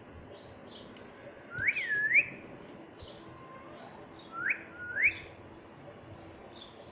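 Ringneck parakeet whistling: a rising-then-falling pair of whistled notes about a second and a half in, then two short rising whistles around four and a half and five seconds, with faint high chirps throughout.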